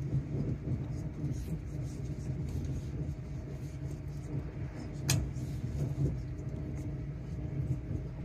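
Cabin noise inside a Great Western Railway Class 800 bi-mode train running at speed on its underfloor diesel engines: a steady low rumble with a faint steady hum. A single sharp click comes about five seconds in.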